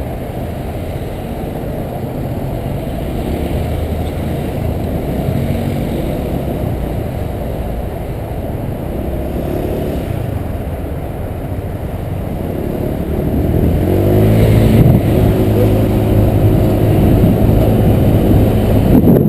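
Honda PCX 125 scooter's single-cylinder engine running while riding, picking up speed about two-thirds of the way through, with the engine note rising and getting louder.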